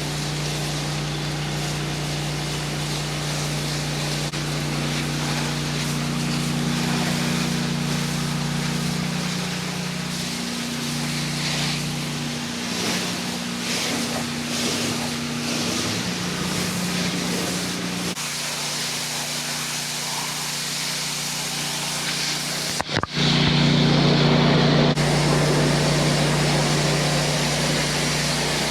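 Honda 8 gpm pressure washer engine running steadily under the hiss of its water spray. The sound breaks off briefly about four-fifths of the way in, and the spray hiss is louder after it.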